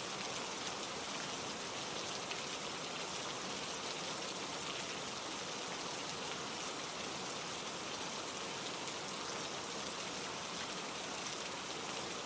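Steady rainfall falling on a surface, an even hiss with no changes.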